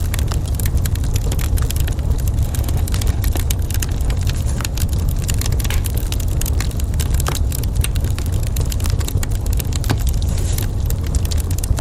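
Wood fire crackling in a fireplace, many small irregular pops and snaps over a steady low rumble.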